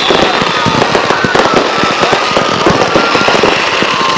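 Fireworks and firecrackers going off in a rapid, continuous barrage of sharp bangs and crackles, with whistling fireworks sliding in pitch over the top.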